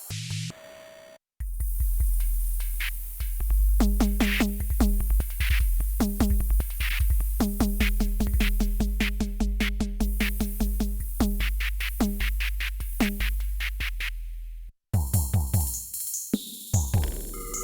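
Nord Drum 3P modelling drum synthesizer playing a simple rhythm pattern on one preset kit: pitched, tom-like electronic drum hits and cymbal-like ticks over a deep sustained low boom. It stops suddenly near the end and a different-sounding preset kit takes over.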